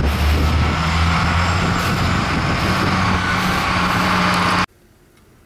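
A motor engine running steadily under a loud rushing noise. It cuts off suddenly near the end.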